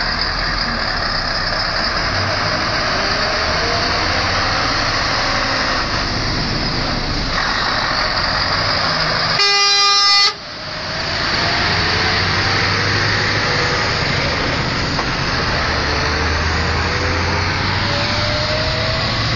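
Scania R620 truck's V8 diesel engine running under load, its note slowly rising, with a single air-horn blast of just under a second about halfway through.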